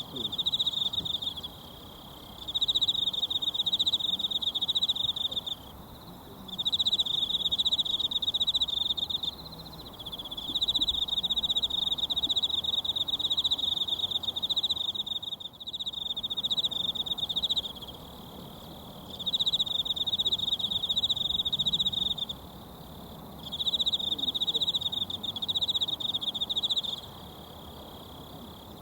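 An insect, cricket-like, trilling a high buzzing trill in bouts of a few seconds with short pauses between, over the faint steady rush of a mountain stream.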